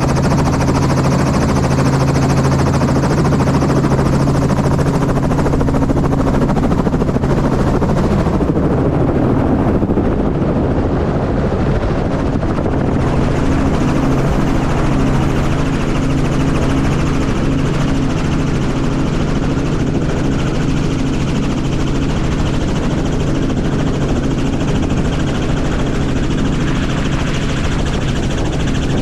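Helicopter's rotor and engine running steadily, a low rotor hum with a noisy wash above it. The low rotor tones smear and shift for a few seconds near the middle, then settle again.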